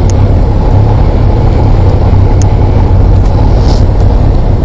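Motorcycle being ridden at a steady road speed: a steady low engine drone under a constant rush of wind noise.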